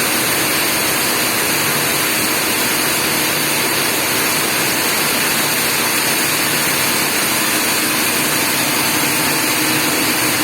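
Heavy rain falling steadily, a dense even hiss, with a faint steady hum underneath.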